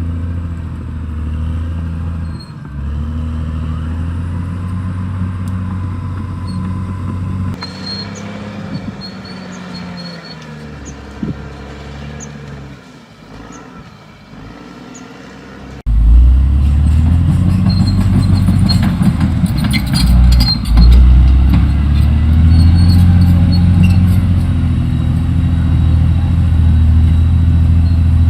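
Caterpillar D6R XL bulldozer's diesel engine running and working, its pitch rising and falling with load. It becomes much louder about halfway through, with scattered metallic clanks.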